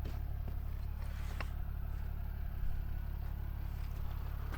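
Truck engine idling steadily, a low even hum, with a faint click about a second and a half in.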